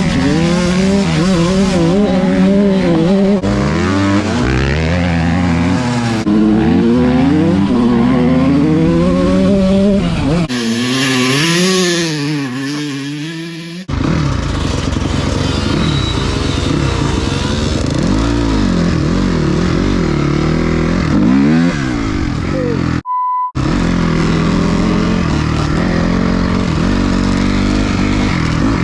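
Dirt bike engine revving up and down hard as it is ridden through the gears, with abrupt changes where clips are cut together. A stretch near the middle is mostly hiss with the engine faint, and near the end the sound drops out briefly with a short beep.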